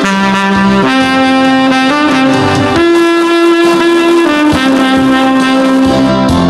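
Tenor saxophone playing a slow melody of long held notes, with music accompaniment; one note is held for about a second and a half in the middle.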